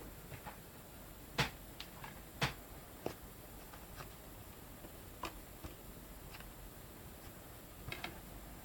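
Scattered clicks and knocks from a DVD box set and its disc cases being handled, with two louder clicks about a second apart in the first half.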